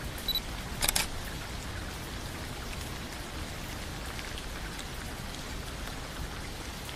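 Steady rain falling, an even hiss of drops on surfaces. A short high beep and then a quick cluster of sharp clicks come about a second in.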